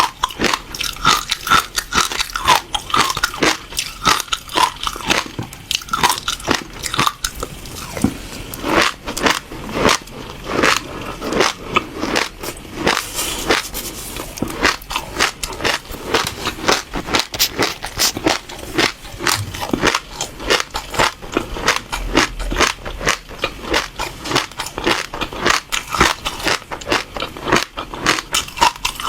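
Passion fruit seeds crunched and chewed between the teeth, close to the microphone: a steady run of sharp crackling crunches, several a second, that doesn't let up.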